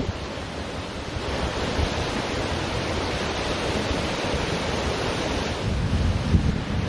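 Ocean surf washing onto a beach, a steady rush that swells about a second in, with wind buffeting the microphone in low gusts near the end.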